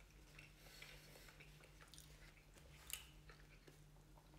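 Faint chewing of a mouthful of cheeseburger: soft mouth clicks, with one sharper click about three seconds in, over a steady low hum.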